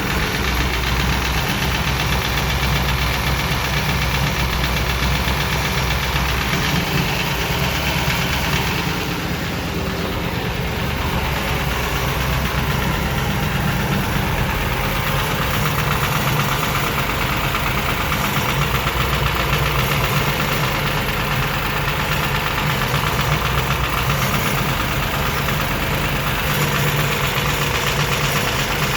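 Ford FE 428 Cobra Jet V8 idling with lifter noise, a rapid ticking from its Morel hydraulic roller lifters over the steady running of the engine.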